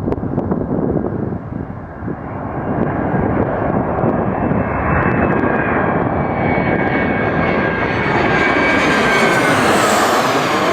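Boeing 737-300 jet airliner on landing approach, its CFM56 turbofan engines getting louder with a high whine. Near the end it passes closest and the whine drops in pitch. There are gusts of wind on the microphone at the start.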